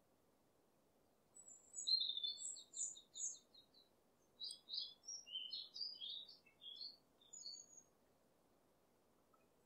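A small songbird singing: a fast trill of high notes, then a string of varied short chirps and whistles, over a faint hiss.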